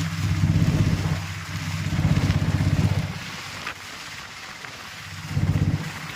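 Heavy rain falling with a steady hiss, under a low rumble that swells and fades in surges about a second long.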